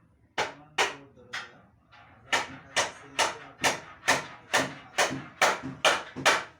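A run of sharp knocks, a few spaced out at first and then an even beat of about two a second, each fading quickly.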